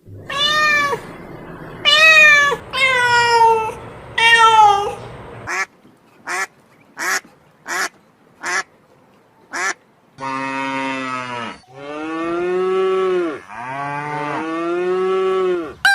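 A series of animal calls from three different kinds of animal: four pitched, falling calls, then six short high calls about two-thirds of a second apart, then three long, lower calls that rise and fall.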